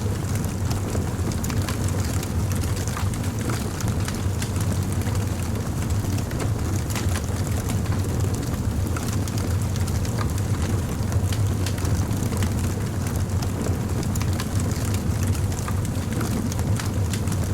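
Crackling fire: a steady run of small irregular crackles and pops over a constant low rumble.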